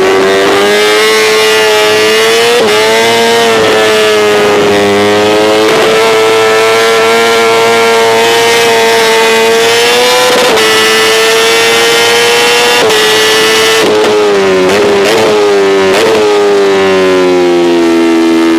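2025 Honda CBR1000RR-R Fireblade SP's inline-four engine held at very high revs against the rev limiter: a steady high-pitched scream with short dips and stutters as the limiter cuts in. Near the end the revs fall away.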